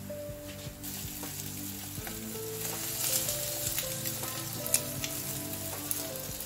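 Egg-dipped bread pieces sizzling as they fry in oil in a nonstick pan (French toast), the hiss growing about a second in. A few sharp clicks come from a spatula knocking against the pan as the pieces are turned.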